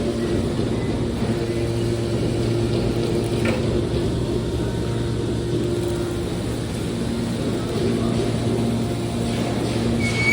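Aluminium can baler's hydraulic power unit running, a steady even machine hum.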